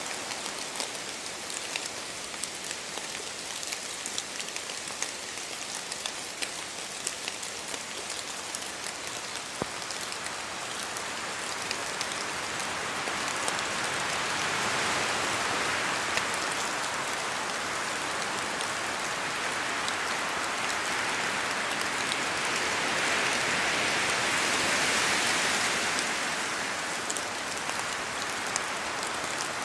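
Rain falling through forest trees, a steady patter with many separate drops ticking on leaves, in wind. The wash of rain swells louder about halfway through and again near the end.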